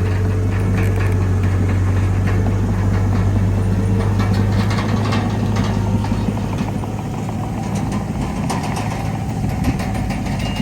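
Heavy diesel earthmoving machinery running steadily, with a constant low engine hum and scattered clanks and clicks over it. The engine eases off slightly about two-thirds of the way through.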